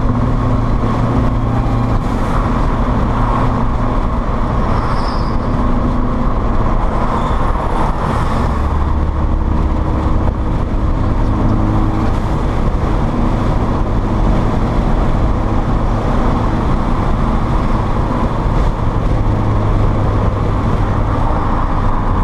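Dodge Neon SRT-4's turbocharged 2.4-litre four-cylinder engine running on the road, heard from inside the cabin over steady tyre and wind noise. The engine drone steps to a new pitch a few times.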